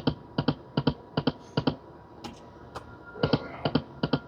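Dancing Drums Explosion slot machine spinning its reels: a steady run of short, sharp clicks, mostly in quick pairs, a few each second.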